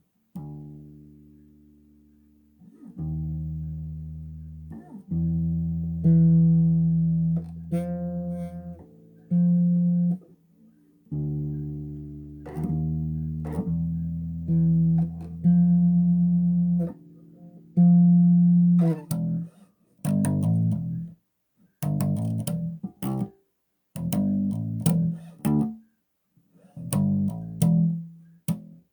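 Bass guitar played solo: long ringing notes and double-stops for most of the passage, then shorter, choppier plucked notes from about twenty seconds in.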